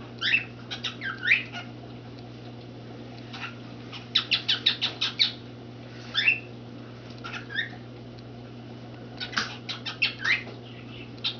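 Cockatiel chirping and chattering in short bursts: quick rising and falling chirps and a rapid run of about six notes in the middle, with another cluster near the end. A steady low hum runs underneath.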